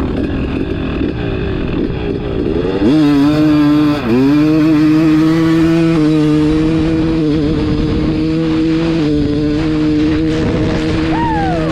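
Two-stroke dirt bike engine, a KTM 300 XC-W with an FMF Fatty expansion chamber and Turbinecore silencer, revving up hard under acceleration about three seconds in. The pitch dips briefly at a gear change, then holds at steady high revs.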